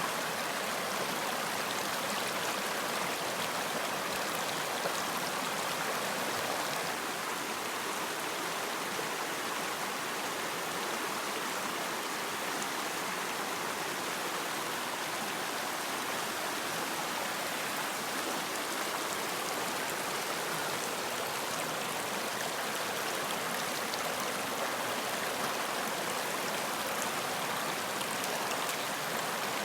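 Running water of a stream, a steady, even rush without pauses.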